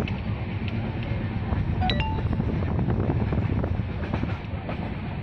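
Passenger coach of the Shan-e-Punjab Express running on the track: a steady low rumble of wheels and coach with scattered faint clicks, and a short high-pitched clink about two seconds in.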